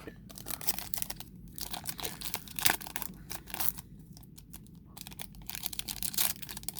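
Foil wrapper of a Pokémon booster pack being torn and crinkled open in irregular bursts of crackling rustle, the wrapper resisting opening.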